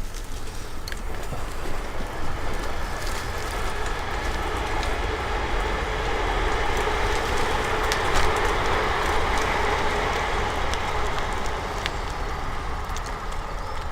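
Train passing on a nearby railway line: a steady noise that swells to its loudest a little past the middle, then eases off.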